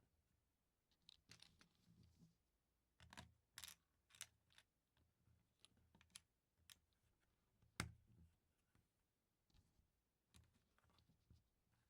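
Plastic LEGO pieces being handled and pressed together: faint, irregular clicks and taps, with one sharper click about two-thirds of the way through.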